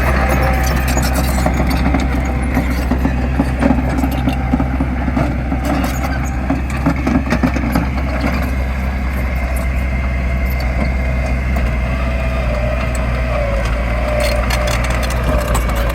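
Heavy diesel machinery engine running steadily under load, with scattered metallic clanks and knocks.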